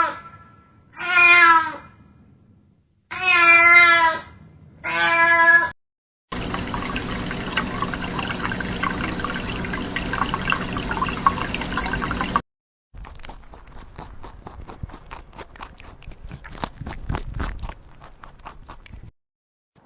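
Four short, wavering animal calls, bleats or meows, in the first six seconds. A steady rushing noise follows for about six seconds, then a run of irregular sharp clicks.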